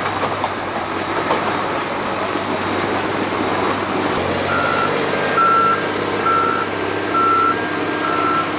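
A heavy vehicle's engine running, and from about halfway through its reversing alarm beeping: short high beeps at one pitch, about one a second.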